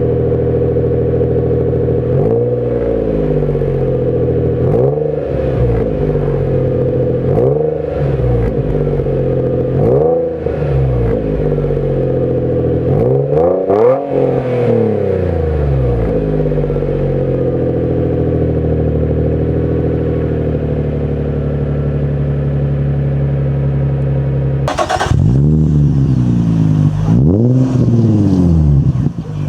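Nissan 350Z's 3.5-litre V6 with an aftermarket exhaust, blipped about five times in quick succession, each rev rising and falling, then settling to a steady idle. Near the end, after a sudden cut, it is revved twice more.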